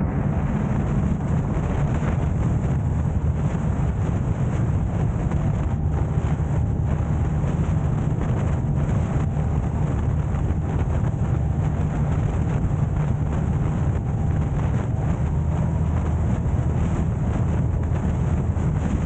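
Car driving, with a steady low rumble of road, engine and wind noise.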